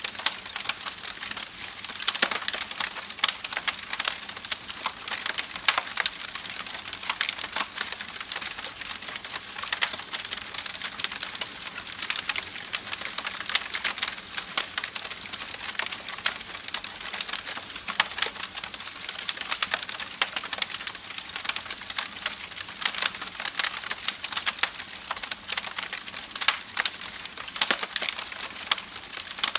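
Campfire crackling steadily, with dense irregular pops and snaps over a continuous hiss.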